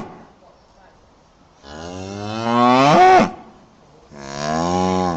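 Cow mooing twice: a long moo that rises in pitch at its end, then a second, steadier moo.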